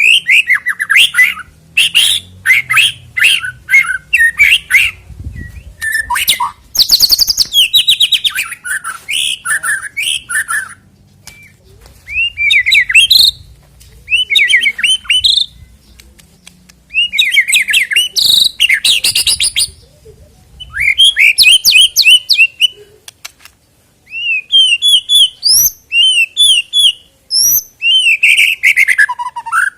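White-rumped shama singing loudly: phrases of rapid, sweeping whistles and chirps, each lasting a second or two, with short pauses between them.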